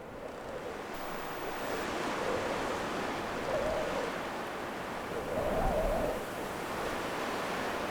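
Outdoor ambience: a steady rushing noise, like wind or water, that builds over the first couple of seconds, with a few faint humming swells.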